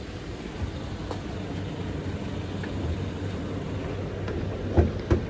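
Toyota Innova Crysta's 2.7-litre 2TR-FE four-cylinder petrol engine idling steadily. Two sharp knocks come close together near the end.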